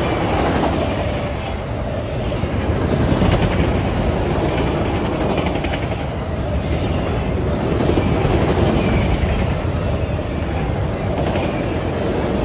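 A freight train of enclosed autorack cars rolling steadily past at close range, its steel wheels clattering on the rails. The level swells and eases gently as the cars go by.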